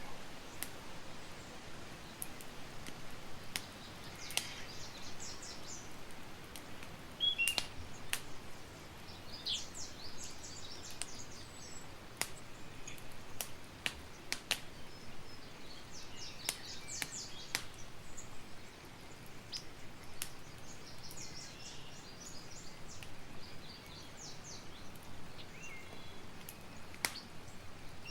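Campfire crackling, with scattered sharp pops over a soft steady hiss, while a bird repeats short bursts of high chirps every five or six seconds.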